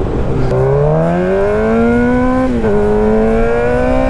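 Motorcycle engine accelerating hard, its pitch climbing steadily, with a brief drop at a gear change about two and a half seconds in, over steady rushing noise.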